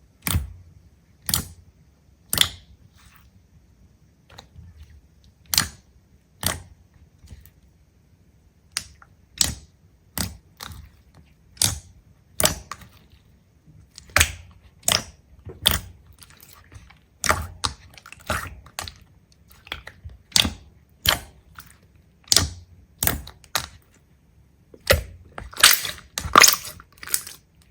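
A series of sharp clicks and taps, irregular, roughly one a second, with a quick run of crackling near the end.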